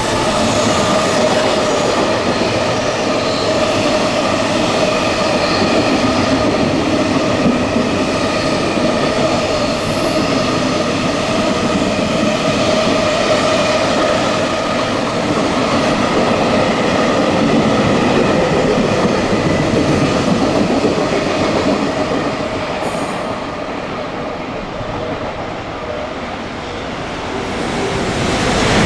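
Electric train running through a station without stopping: a loud, continuous rumble of wheels on rail with steady ringing tones over it. It eases slightly near the end, then swells again.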